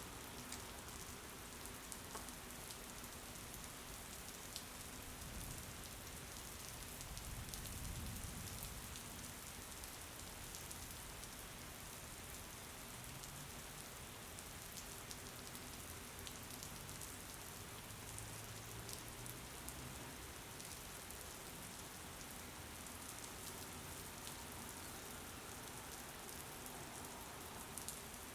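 Steady rain: an even hiss with scattered patter of individual drops. A low rumble swells briefly about a quarter of the way through.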